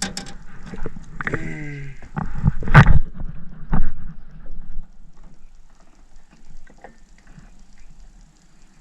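A few sharp knocks, the loudest about three seconds in, then faint light ticking from a spinning reel being wound in.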